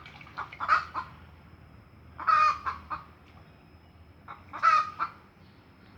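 Domestic chicken clucking: three loud, drawn-out calls about two seconds apart, with a few short clucks between them.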